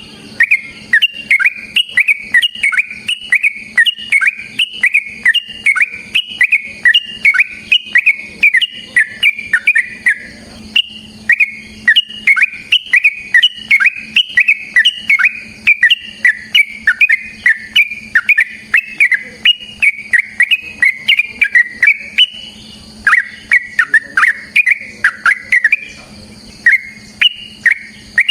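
Yellow-vented bulbul (trucukan) singing a long, rapid run of loud, repeated sweeping chirps, several notes a second, broken by brief pauses twice.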